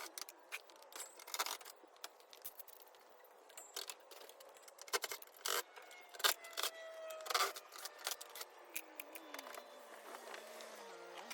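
Scattered clicks, taps and light metallic rattles of hand-tool work on the camper's panels and framing. A faint tone glides down in pitch over the last few seconds.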